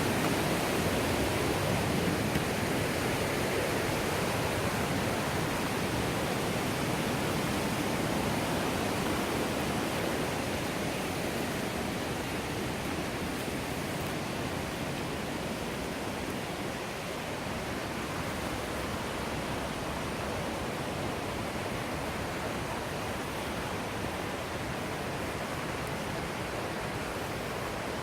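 Millstone River water rushing: a steady noise of flowing water that grows a little fainter through the second half.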